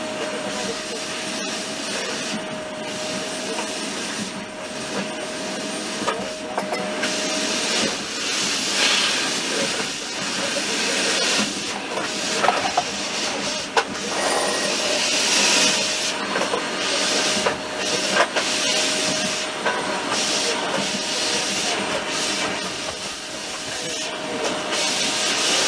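Passenger train running at speed, heard from inside the carriage by the window: a steady rush of wheel and air noise with a faint steady whine that fades out for a while midway, and a few sharp clicks.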